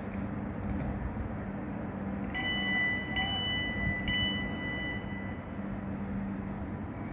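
A train running at the station platform, with a steady low hum. About two seconds in, three identical ringing electronic tones sound about a second apart and then fade.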